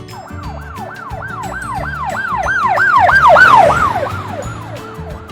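Police siren in a fast rising-and-falling wail, about three sweeps a second. It grows louder, then fades away and drops a little in pitch, as if passing by. Background music plays underneath.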